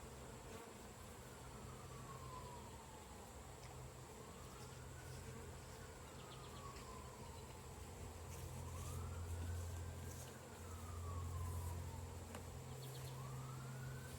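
Honeybees buzzing around an opened hive, a steady hum that swells about eight seconds in. A distant siren wails faintly behind it, rising and falling in slow sweeps.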